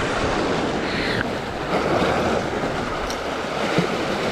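Ocean waves washing against rocks, with wind on the microphone.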